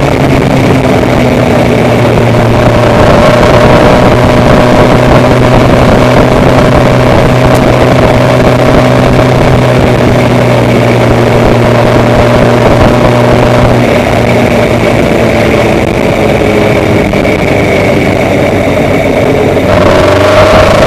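Steady, loud running of a vehicle engine, with several constant hums; the lowest hum drops out about two-thirds of the way through.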